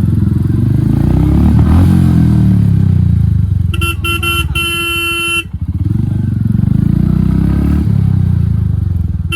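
Royal Enfield Hunter 350 single-cylinder engine running loud through an HK aftermarket exhaust with the dB killer removed. The engine pitch rises and falls as the bike is ridden. Midway, a vehicle horn gives a few short beeps and then one longer honk.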